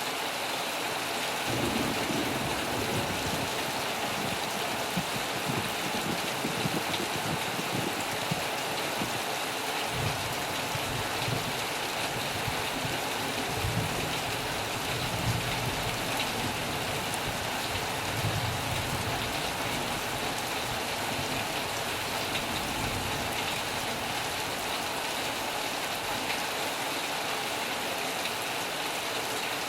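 Heavy rain falling steadily on a metal roof, an even hiss of drops. Low rumbles of distant thunder swell and fade over the first two-thirds.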